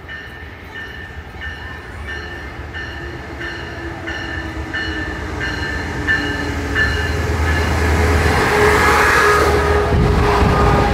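Passenger train approaching and running past close beneath, its rumble growing steadily louder until it is loudest in the last few seconds. A bell dings about one and a half times a second through the first part and drops away about seven seconds in.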